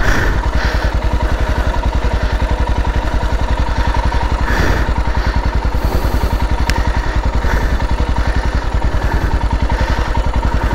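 Royal Enfield Himalayan's air-cooled single-cylinder engine idling with a steady, even beat. A single sharp click comes about two-thirds of the way in.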